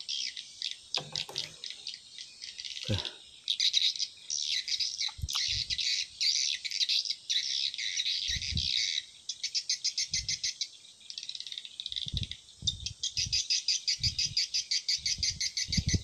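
Birds chirping rapidly and continuously in high-pitched trills, with a few dull low knocks now and then.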